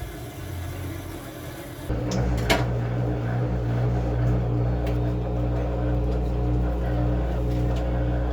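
Washing machine running with a steady low motor hum. The hum changes abruptly about two seconds in, and a single sharp click follows shortly after.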